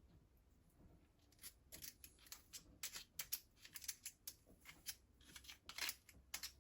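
Faint, irregular light clicks and short scrapes of small hard parts being handled, starting about a second in and coming several times a second.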